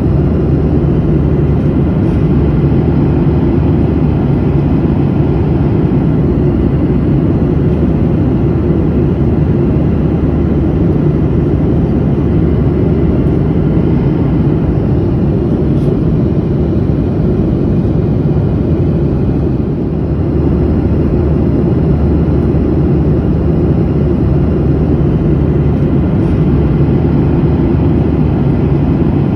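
Steady low rumble of an airliner in flight, its engines and rushing air heard from inside the cabin, with a brief slight dip about twenty seconds in.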